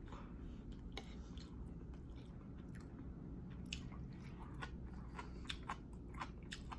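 A person chewing and biting food close to the microphone: faint, scattered wet mouth clicks and smacks.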